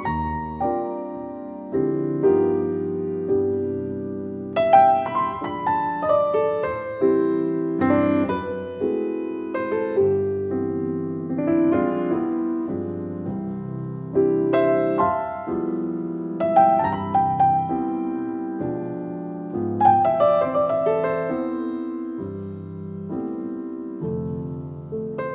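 Background solo piano music: slow, gentle playing with notes and chords struck and left to ring out.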